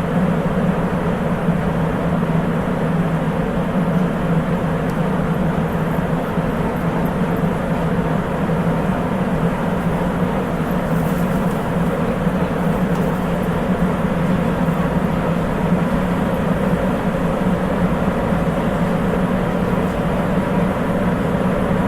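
Sapporo Municipal Subway 8000 series rubber-tyred train running steadily through the tunnel, heard from inside the car: a constant rumble with a strong low hum and no change in pitch.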